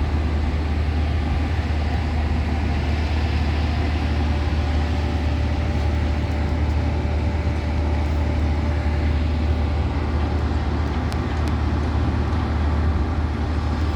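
Steady low engine drone with a broad rumble of machinery noise over it, unchanging throughout, with a few faint clicks about eleven seconds in.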